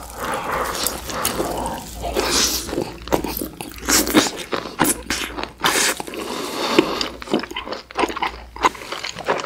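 Close-miked biting and chewing as braised beef short-rib meat is torn off the bone with the teeth and chewed, with irregular sharp mouth clicks and smacks.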